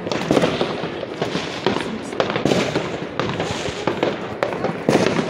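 Fireworks going off: a continuous run of overlapping bangs and crackles, with a few louder bangs among them.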